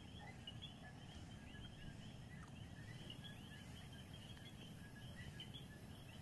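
Faint outdoor lakeside ambience: many small birds chirping in quick, repeated short notes over a steady low rumble.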